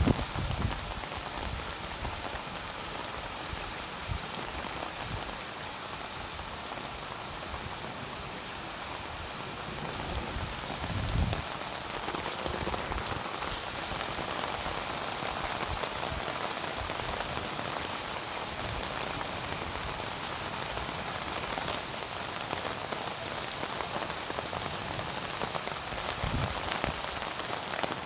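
Steady rain falling onto surfaces during a hailstorm, a dense, even hiss, with a brief low thump about eleven seconds in.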